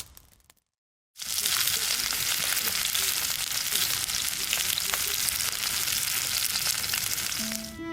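Food sizzling in a hot pan over a fire: a steady, dense hiss with small scattered pops, starting abruptly about a second in after a moment of silence. Music comes in at the very end.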